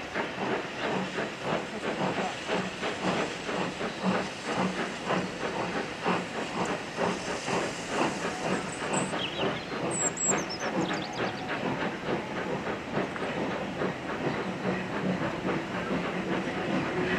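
Steam locomotive working hard, its exhaust beating evenly at about four beats a second over a steady hiss of steam.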